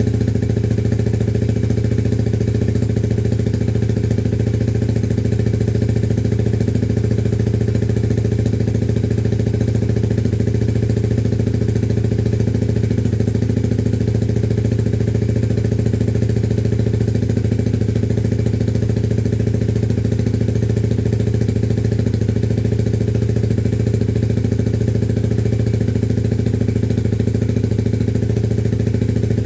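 Motorcycle engine idling steadily at an even pitch after a cold start, with no revving.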